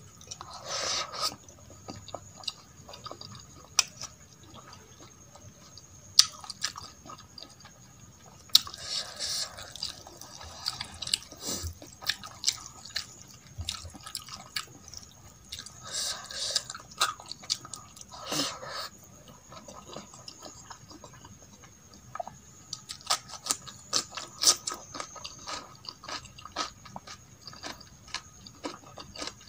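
Close-miked wet chewing and mouth smacks of someone eating rice and masoor dal by hand, with many short clicks and several longer squishy bursts as fingers mix the rice and dal on a steel plate.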